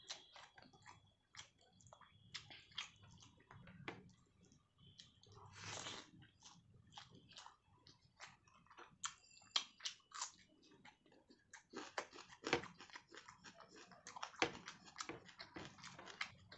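A person eating up close: chewing and biting with wet mouth clicks, and a few sharper crunches in the second half.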